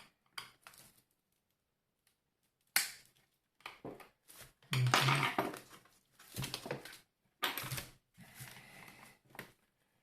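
Plastic housing of a Tefal steam iron being pried and worked upward by hand: irregular clicks, creaks and short cracking noises, the longest stretch about halfway through.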